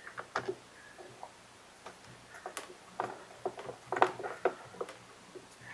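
Irregular light clicks and taps of screws being driven with a screwdriver into a two-stroke leaf blower's plastic housing and of the housing parts being handled, busiest about three to four and a half seconds in.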